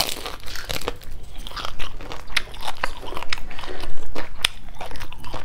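Crunching and chewing of crispy deep-fried shrimp-and-pork wontons, picked up close on a clip-on microphone: many sharp, irregular crackly crunches as the fried wrapper breaks.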